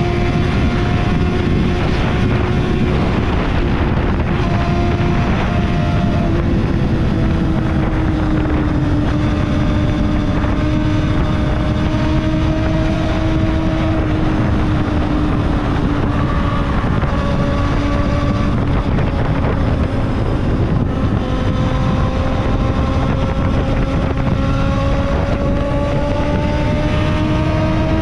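Kawasaki ZXR250 inline-four motorcycle engine running at steady high revs while riding, its pitch sagging slightly and climbing back. Wind rushes across the microphone.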